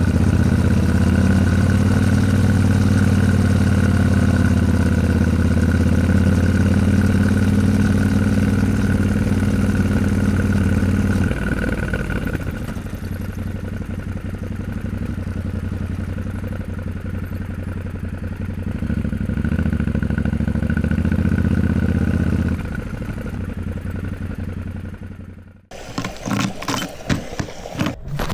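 Yamaha Ténéré 700 motorcycle engine running under way, steady and loud at first, dropping to a quieter, lower note about twelve seconds in, then picking up and falling off again. Near the end it cuts out abruptly to irregular thumps and wind noise on the microphone.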